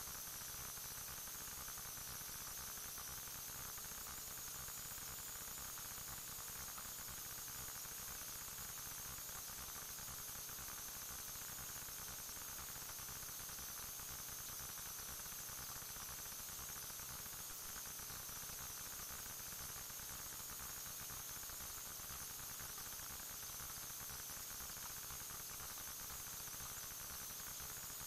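Steady electronic static: an even hiss with a faint low hum underneath, unchanging, with no distinct events.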